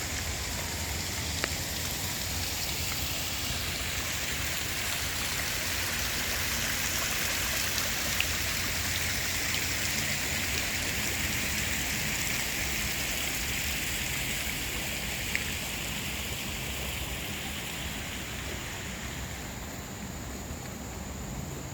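Forest insects in a steady high-pitched chorus, with a thin continuous whine above it. The chorus swells through the middle and eases off near the end.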